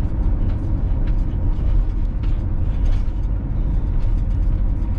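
Motorhome engine and road noise heard from inside the cab while driving, a steady low rumble with a few light rattles and clicks.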